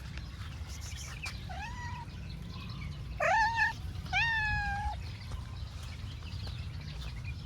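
Domestic cat meowing three times: a short, quieter meow, then two loud drawn-out meows, the first rising in pitch and the second falling slightly.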